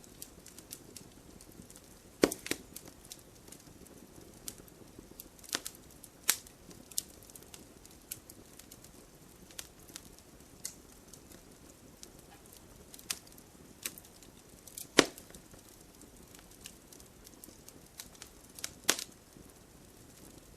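Campfire burning, with a steady low hiss and irregular sharp crackles and pops of burning wood. The loudest pops come about two, six, fifteen and nineteen seconds in.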